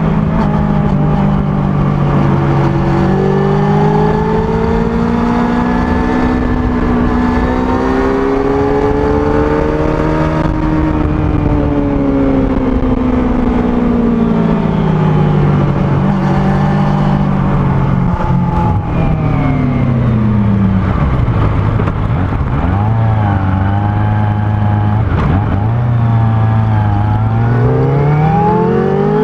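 Kawasaki ZX-25R's four-cylinder engine through its standard exhaust under way, its pitch climbing and falling as the rider accelerates and eases off, dropping low around two-thirds in before rising again near the end.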